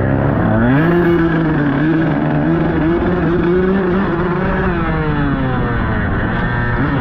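Dirt bike engine running under throttle while riding. Its pitch rises about a second in, holds with small surges, drops off about two-thirds through, then climbs again near the end.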